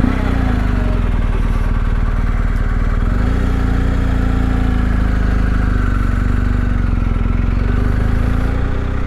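Motorcycle engine running as the bike pulls away and rides on, its note shifting a little about three and a half seconds in, then holding steady.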